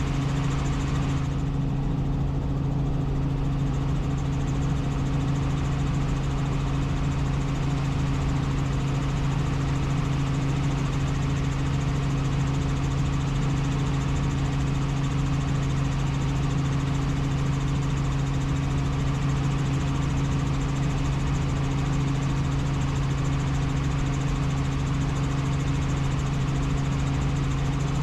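Helicopter in flight heard from inside the cabin: a steady engine and rotor drone with a strong, unchanging low hum.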